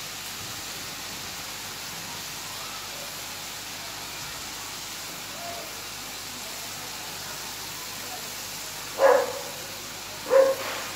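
Chopped radish and radish greens sizzling steadily in a kadai, most of the radish's water cooked off. Near the end, two short loud voice-like sounds about a second and a half apart.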